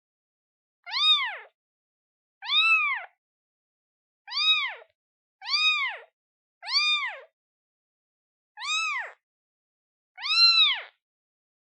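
A newborn kitten, one day old, meowing for its mother: seven short, high-pitched meows, each rising then falling in pitch, about one to two seconds apart.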